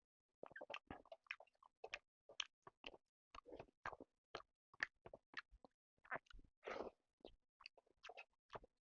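Close-miked chewing and biting of chicken and rice: irregular wet smacks and small crunches, with a longer squelch about two-thirds of the way through.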